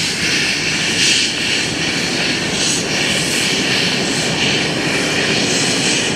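Steam locomotive C57 1 giving off a loud, steady hissing rush of steam that swells irregularly.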